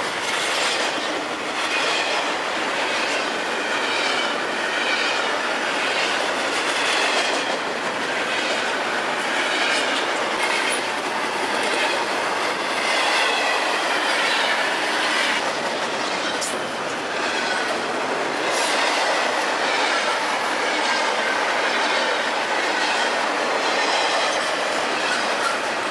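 CSX freight train's cars rolling past at a steady level, with wheels clicking on the rail and a wavering, high-pitched wheel squeal throughout.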